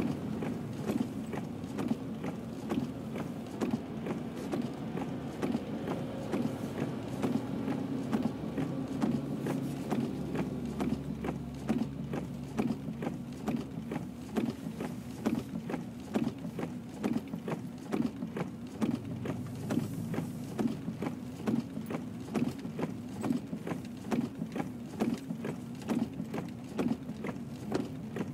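A vehicle running with a steady low hum, with regular short ticks or knocks about twice a second throughout.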